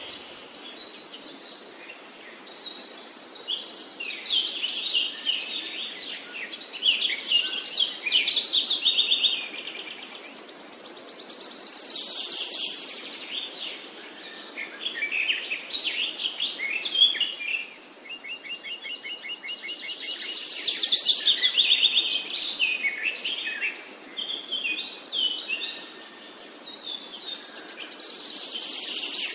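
Wild birds singing: many varied chirping phrases, with loud, high, rapid trills that swell for a second or two every few seconds.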